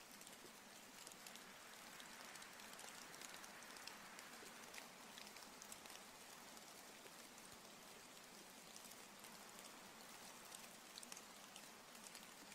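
Faint, steady rainfall, with a dense patter of individual drops.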